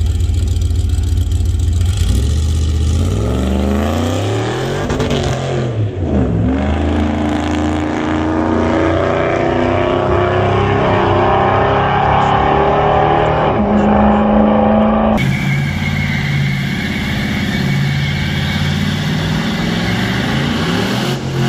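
Vehicle engine running steadily, then accelerating hard with its pitch climbing, dropping once at a gear change and climbing again. Later the sound switches abruptly to a steadier engine note that starts rising again near the end.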